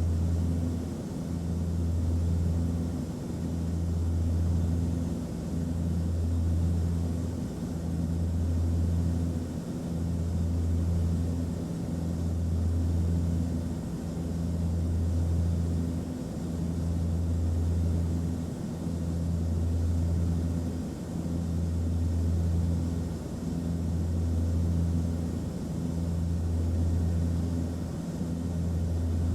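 Airplane cabin noise in flight: a steady low engine drone with a hum in it, swelling and fading in a slow, even pulse about every two seconds.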